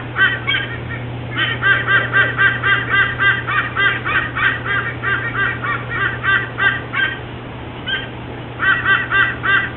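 White-bellied sea eagles calling: rapid runs of goose-like honking notes, about four or five a second, one long run and a shorter one near the end. A steady low hum runs underneath.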